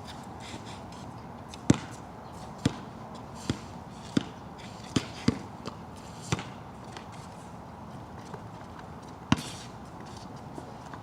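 Basketball bouncing on a wet court: about eight sharp, unevenly spaced bounces, over a steady hiss of rain.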